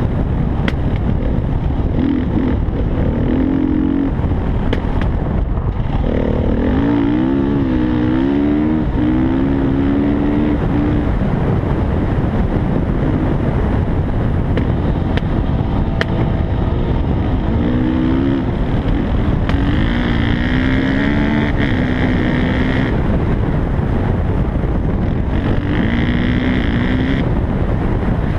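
Dirt bike engine running under changing throttle while riding, its pitch rising and falling repeatedly, over a heavy rumble of wind on the microphone.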